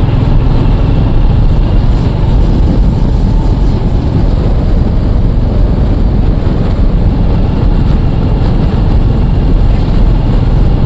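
Royal Enfield Classic motorcycle's single-cylinder engine running steadily with a deep low rumble.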